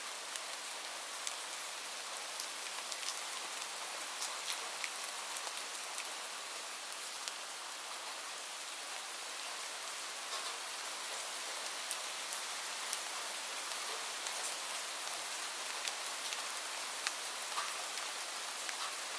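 Steady rain falling, an even hiss with many scattered sharp drops landing on a surface.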